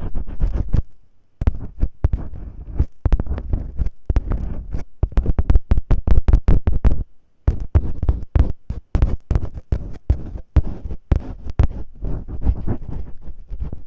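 Masking tape rubbed and crinkled right against the microphone in ear-cleaning-style ASMR: rapid, irregular scratchy crackles with a heavy low rumble, pausing briefly twice.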